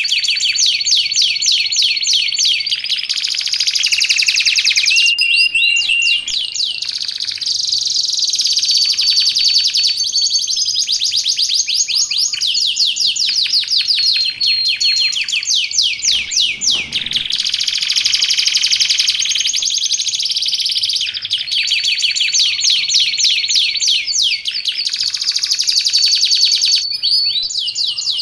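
Canary singing continuously in rapid trills and rolling phrases, broken by steady held high whistles, without pause.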